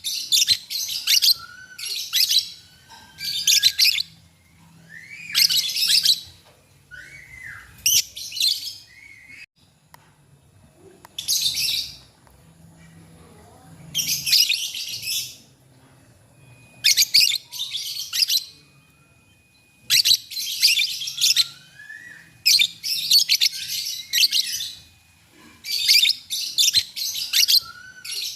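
Lovebirds chattering in repeated shrill bursts of half a second to a second, answering each other, with short quick rising whistles between the bursts.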